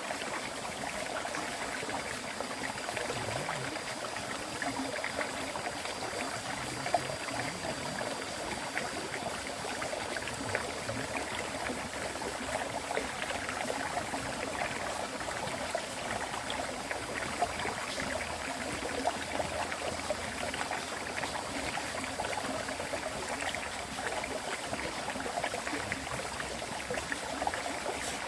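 River water flowing steadily: a continuous rushing, burbling stream, with a few brief louder splashes.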